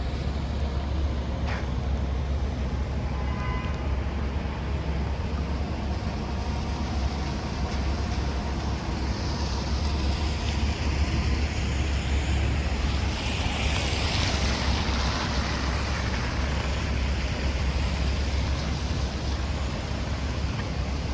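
Wind buffeting the microphone with a steady low rumble, over an even hiss of heavy rain and wet street noise during a tropical storm. About halfway through, a louder hiss swells for several seconds and then fades.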